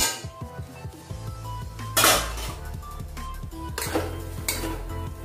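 A steel lid is lifted off a kadai and set down, then a spatula clatters and scrapes against the pan while stirring cooked poha. It makes a few metal clanks, the loudest about two seconds in, over background music.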